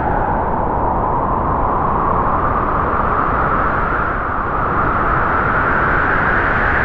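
Strong wind howling through trees: a steady rushing roar with a hollow whistling tone that dips in pitch in the first second, then slowly climbs again.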